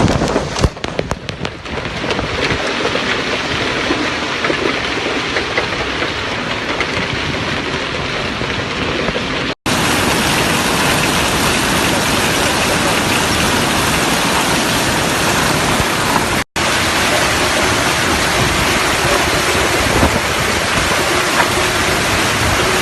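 Heavy hail and rain pounding down in a dense, steady din. It breaks off abruptly twice and comes back louder.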